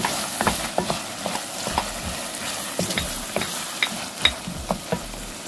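Diced onions, red chillies and curry leaves sizzling in hot oil in a clay pot, stirred with a wooden spoon that scrapes and knocks against the pot at irregular moments. The sizzle and crackle is partly from the clay pot having been soaked in water before cooking, which makes bubbles and sounds under the oil.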